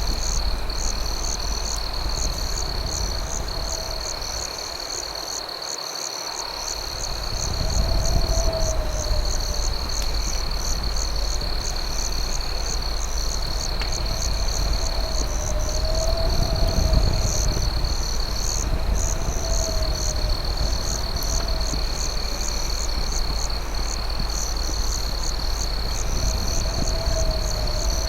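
Crickets and other night insects: a steady high trill with chirps pulsing over it about twice a second, and a lower wavering call repeating every few seconds, over a low rumble.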